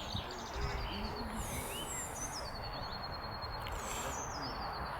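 Birds singing: short high chirps and sweeping notes, with a fast, even trill near the middle, over a steady low outdoor background noise.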